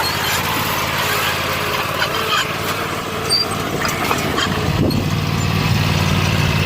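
Tractor engine running steadily, its hum getting louder about four and a half seconds in.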